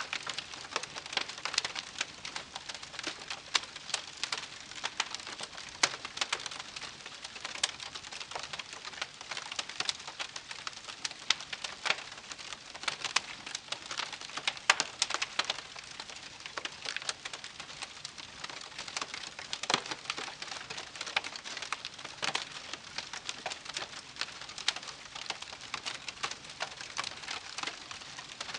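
Wood campfire crackling: a steady soft hiss with many small sharp pops and snaps at irregular moments.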